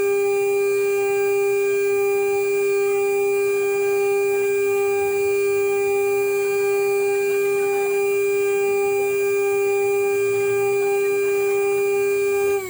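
CNC router spindle running at constant speed, a loud, steady whine with overtones. At the very end its pitch starts to drop as the spindle begins to spin down.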